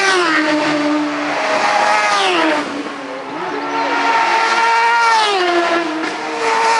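Superbikes passing at racing speed on the road course, one after another; each engine's pitch drops sharply as it goes by, about three times, with another bike arriving at the very end.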